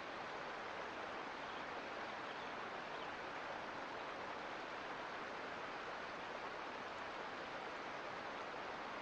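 Mountain creek water rushing over rocks, a steady even rush with no change.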